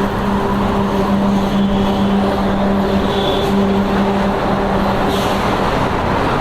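Motorcycle engine running at a steady cruising speed, a level droning note, mixed with dense wind and road noise.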